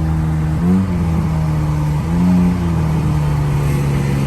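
Car engine running at a steady speed with a loud, even drone, rising briefly in revs twice, about a second in and again about two seconds in.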